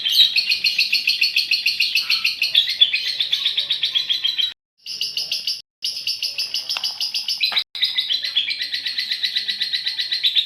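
Female lovebird's long chattering trill (ngekek panjang): a fast, unbroken run of high, shrill notes, several a second. It cuts out briefly three times between about four and a half and eight seconds in.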